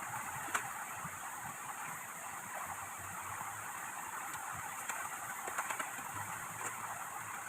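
Steady heavy rain hissing, with a few light taps about half a second in and again around five to six seconds in.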